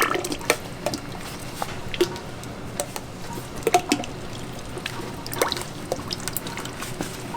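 Kitchen food-preparation sounds: liquid trickling and dripping, with irregular sharp clicks and knocks of things being handled.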